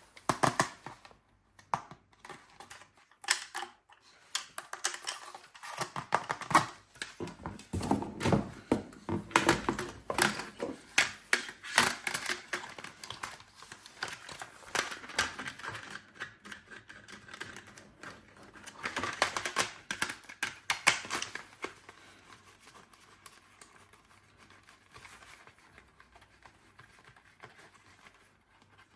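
Objects being handled: rapid irregular clicking and rattling with short rustles, in bursts. The bursts are busiest around seven to twelve seconds and again around nineteen to twenty-one seconds in, then fade to faint scratching near the end.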